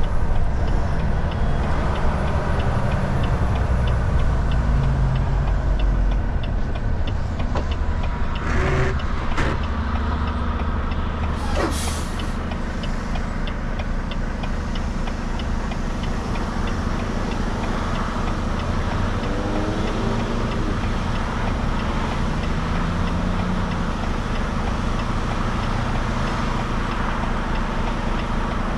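Volvo VNL 760 semi truck driving on the highway: steady engine and road noise, heavier in the first few seconds, with a few short hisses about a third of the way in.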